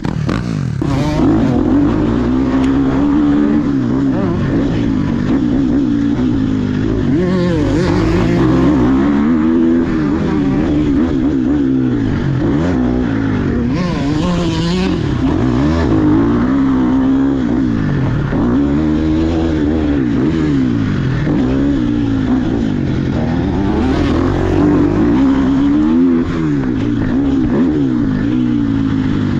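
Dirt bike engine running hard while being ridden, its pitch rising and falling every second or two with throttle and gear changes.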